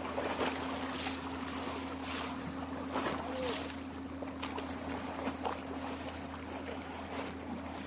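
Small lake waves lapping and splashing against the shore in frequent soft slaps, over a steady low hum.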